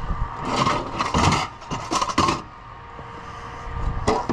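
Toy farm wagons and hitch rattling and scraping as they are coupled to a toy tractor: a few short clattering scrapes in the first couple of seconds and another near the end.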